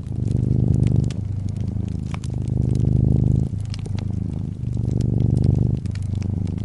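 Brown tabby cat purring steadily and close up, the low purr swelling and easing about once a second with each breath in and out. Scattered sharp crackles and pops from a wood fire sound over it.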